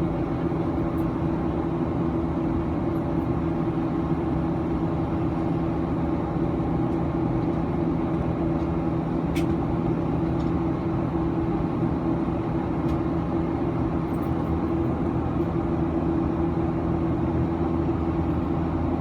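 Steady cabin drone inside a Boeing 737-900 airliner, with one sharp click about halfway through.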